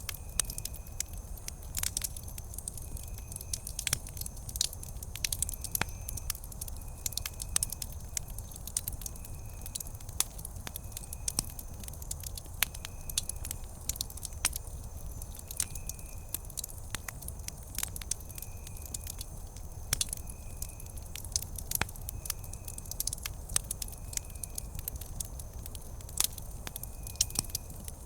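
Wood campfire crackling, with frequent sharp pops and snaps over a low steady rumble of the burning fire. A faint high chirp repeats about once a second behind it.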